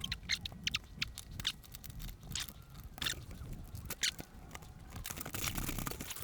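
A hook tool clicking and scraping against the rubber radiator hose of a 1984 Honda Shadow VT500C as the hose is pried and worked off its fitting: irregular clicks and scrapes, with a denser stretch of scraping about five seconds in.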